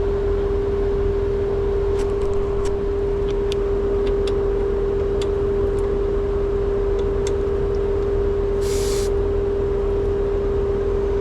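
Trane two-stage outdoor air-conditioning unit running with a steady hum, with scattered light clicks and a brief hiss about eight and a half seconds in.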